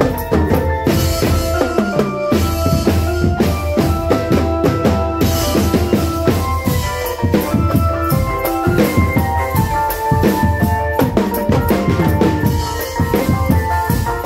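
Drum band music: dense, driving drumming on bass and snare drums under a repeating melody, loud and steady throughout.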